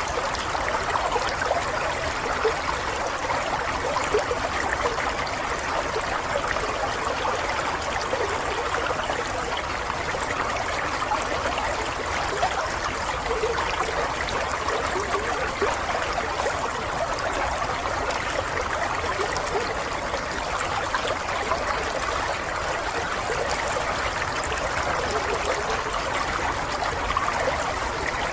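Water flowing steadily in a continuous trickle, with no change in level.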